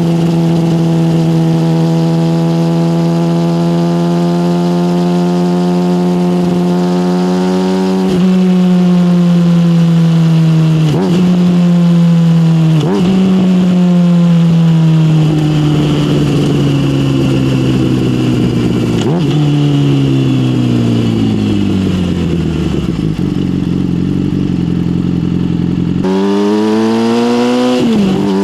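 Yamaha motorcycle engine through an SC-Project aftermarket exhaust, heard from the rider's seat. It holds a steady note for several seconds, then breaks sharply in pitch a few times as the gears change. From about halfway it falls in a long slow glide as the bike slows, and revs up steeply again near the end.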